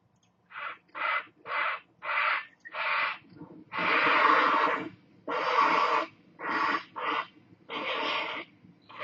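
Harsh calls from the white birds known in Iraqi Arabic as 'zarki': five short calls about half a second apart, then several longer, drawn-out calls.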